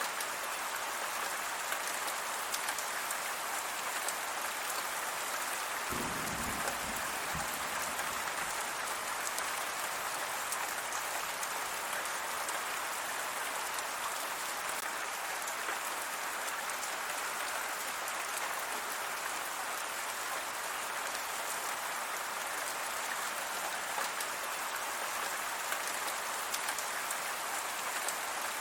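Steady rain falling and pattering on surfaces, an even hiss throughout, with a brief low rumble about six seconds in.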